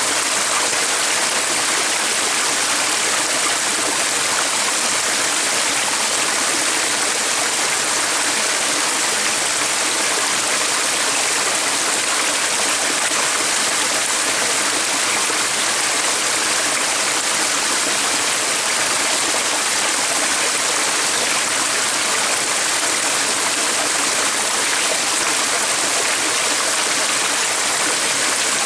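Flowing water rushing steadily and evenly, with no change through the stretch.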